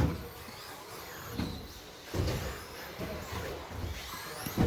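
13.5-turn brushless electric RC stadium trucks racing around a track. Their motors give faint high gliding whines over the steady noise of tyres and running gear, and a few short thumps come as trucks land and knock against the track.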